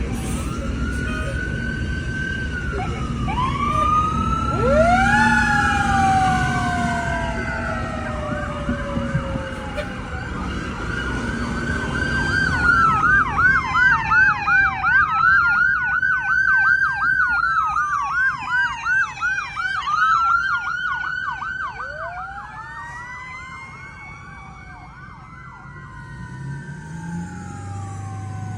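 Several emergency-vehicle sirens sounding together, an ambulance and fire engine among them, with slow overlapping wails that switch to a rapid yelp about twelve seconds in, over a low rumble during the first part. The sirens fade toward the end.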